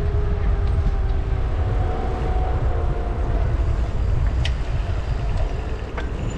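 Street sound heard from a moving bicycle: a low wind rumble on the microphone under passing traffic, with faint steady tones in the first half and a couple of light clicks later on.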